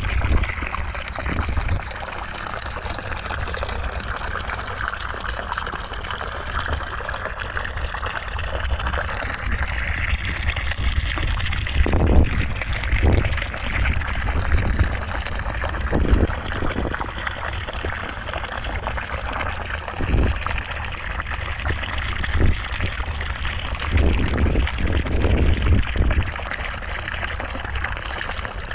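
Steady rush of running water used as white noise, with a low rumble and a few brief louder surges.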